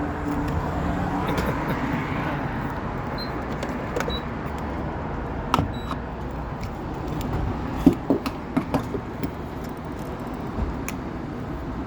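Car running with a steady low rumble, and a quick run of sharp clicks a little past the middle.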